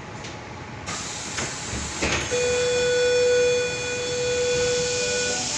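Tangara suburban train's passenger doors opening: a pneumatic hiss about a second in, a clunk, then a steady pitched electronic tone for about three seconds.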